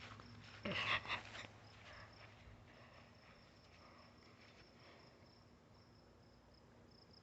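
Faint, steady high-pitched chirring of crickets, with a short louder burst of noise about a second in.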